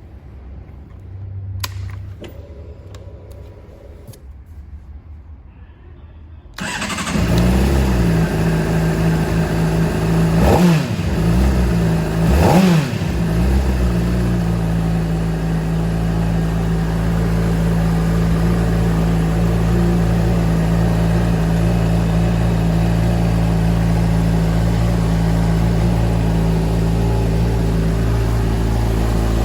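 Honda CBR600RR inline-four engine being started after a few quiet clicks and a brief whir: it catches about six and a half seconds in, is revved twice in quick blips, then settles into a steady idle.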